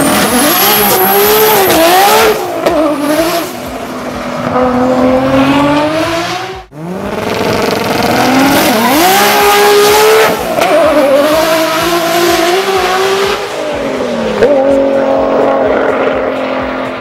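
High-revving racing car engine accelerating hard through the gears, its pitch climbing and dropping back at each shift. The sound breaks off sharply near the middle and resumes at a fresh run.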